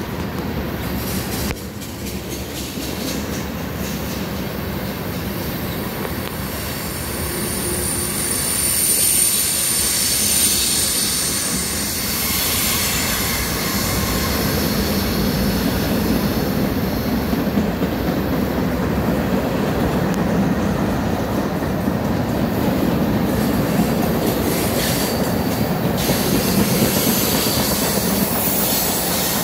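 Long mixed freight train rolling past: a steady rumble of steel wheels on rail, with a thin high wheel squeal for a few seconds about eight seconds in.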